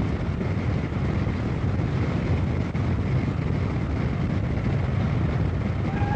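A car driving at speed: a steady rumble of engine and road noise.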